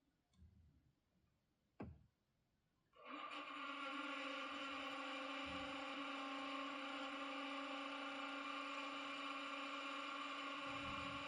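Sound decoder of a model Class 31 diesel locomotive playing its diesel engine running sound through the model's small speaker: a steady, even drone that starts suddenly about three seconds in, after a single click.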